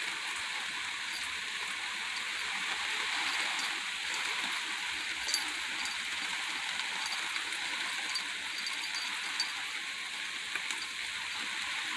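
Steady soaking rain falling, an even hiss with a few sharper drop ticks now and then.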